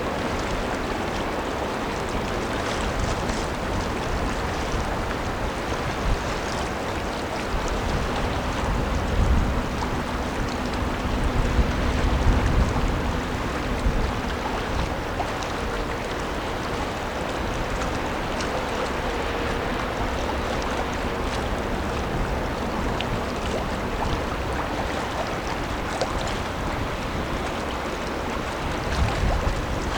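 Steady rush of river water and wind as a 143 m oil/chemical tanker passes. A faint low hum from the ship's engine comes through in the middle, and low rumbling gusts of wind hit the microphone about ten seconds in and again near the end.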